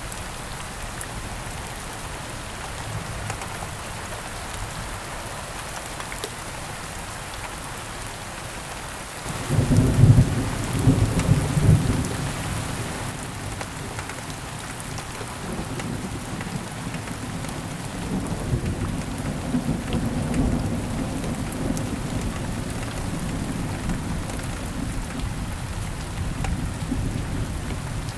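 Steady rain falling, with a sudden clap of thunder about a third of the way in, then lower rolling thunder rumbling under the rain for the rest of the time.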